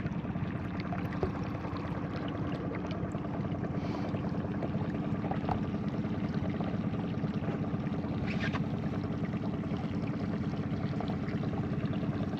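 Boat engine running steadily at low speed, a constant low drone with water washing along the hull.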